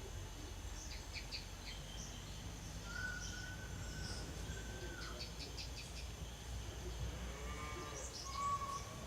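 Birds chirping: clusters of quick high chirps, with a long steady whistled note about three seconds in, over a low steady rumble.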